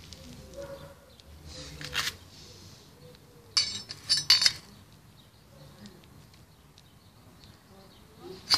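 Sharp metallic clinks and clatter, once about two seconds in and a quick cluster of three between three and a half and four and a half seconds in, with faint handling noise between.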